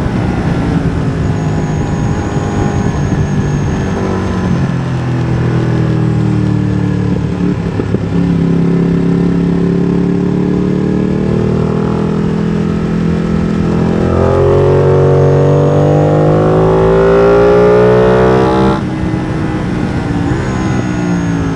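Ducati Streetfighter V2's 955 cc Superquadro V-twin, open MIVV exhaust with the dB killer removed, pulling hard on track. Its pitch climbs in stages through the gears and it gets louder towards a peak, then the throttle is shut abruptly about three-quarters of the way through and it drops to a lower, uneven note.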